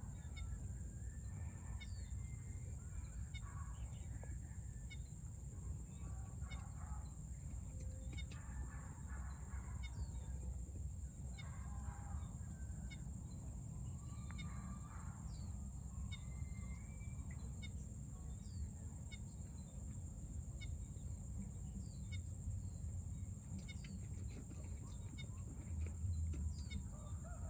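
Chickens clucking and calling in short, scattered bursts, over a steady high-pitched drone and a low rumble.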